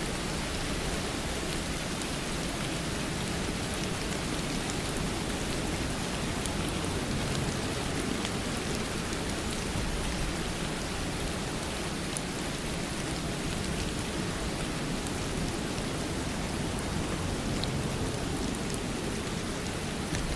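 Steady rain, falling evenly, with scattered drop ticks.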